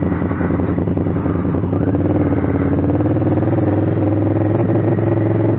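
Honda Africa Twin CRF1000L's 998 cc parallel-twin engine running under way, its revs climbing slightly through the middle.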